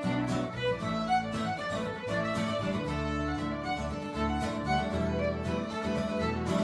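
Fiddle playing a lively traditional folk tune over guitar accompaniment.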